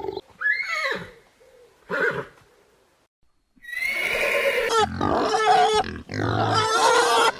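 Animal calls: a short call falling in pitch, a brief second call, then after a pause a few seconds of loud, harsh calls.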